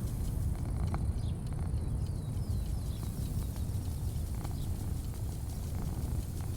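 Outdoor ambience: a steady low rumble, with a few faint chirps about a second in and scattered faint clicks.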